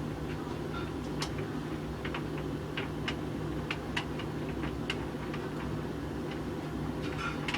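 Hoover VHV680C tumble dryer running with a load of clothes: a steady motor and drum hum with irregular light clicks and taps as the tumbling load strikes the drum.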